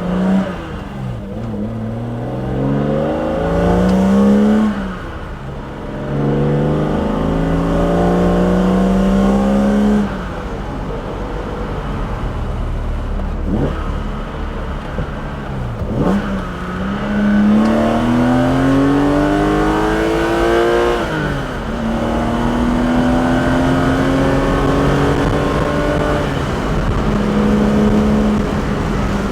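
BMW S38B36 3.6-litre straight-six, fitted with individual throttle bodies and a custom exhaust, pulling hard through the gears. Intake and exhaust rise in pitch through three long pulls, each cut off by a sudden drop at the upshift. Between the pulls it runs steadier and lower, off the throttle.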